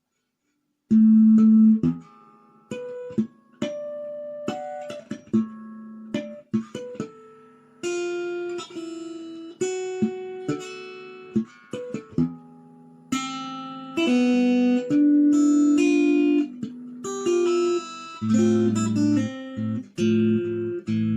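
Acoustic guitar playing an instrumental intro, single picked notes that ring and fade, starting about a second in. Near the end low bass notes join under the melody.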